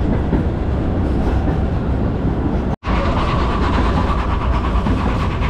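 Narrow-gauge steam train heard from its open-sided carriage: a steady rumble with the clatter of wheels on the rails. The sound drops out for an instant about three seconds in.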